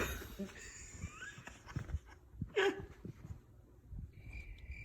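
A short falling whine from the puppy about two and a half seconds in, over faint rustling. Near the end a cricket starts chirping in a steady high pulse.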